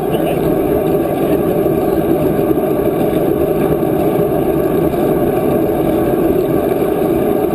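Steady rushing noise of wind buffeting the microphone while riding a bicycle.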